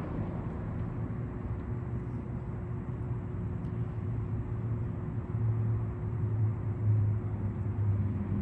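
Low steady hum with a faint constant tone above it, growing somewhat louder about five seconds in.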